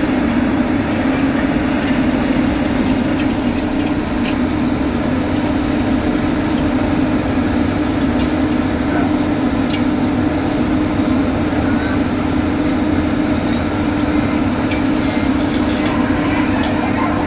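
Heavy diesel road-construction machinery running steadily, a constant engine drone with no change in pitch or level.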